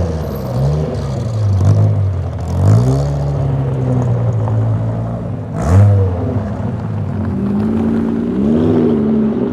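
Sports car engine idling, with several quick revs that rise and fall back in pitch; the sharpest and loudest rev comes about five and a half seconds in.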